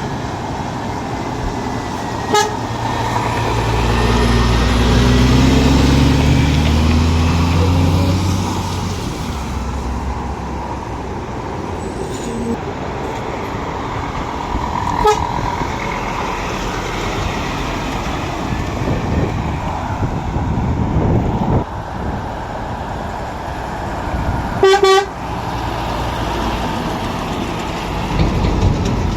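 Lorries running and passing, one engine rising in pitch as it pulls away, loudest about four to eight seconds in. Short horn toots sound about two, fifteen and twenty-five seconds in, the last the loudest.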